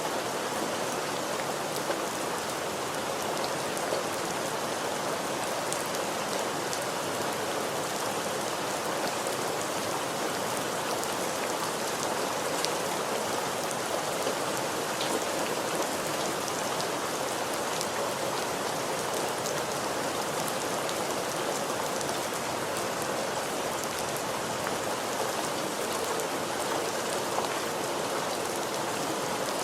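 Steady rain falling and pattering on a surface, with scattered individual drops ticking through an even wash of noise.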